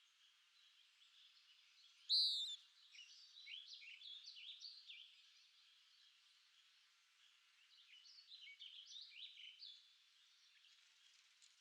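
Songbirds singing: a loud, clear call about two seconds in, followed by runs of quick, varied chirps and short whistled notes that come and go.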